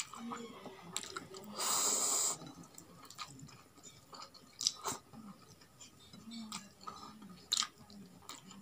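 Close-miked chewing of roasted chicken and rice, with wet mouth clicks and smacks scattered throughout. A brief, loud hissing burst comes about two seconds in.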